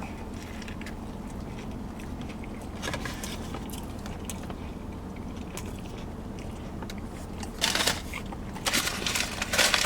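Steady low hum of an idling car heard inside the cabin, with faint scattered clicks of eating. Near the end, a few seconds of loud rustling.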